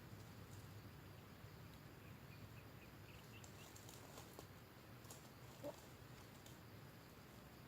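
Near silence: faint outdoor background with a short run of soft high chirps and a few faint clicks. One brief, slightly louder sound comes about two-thirds of the way through.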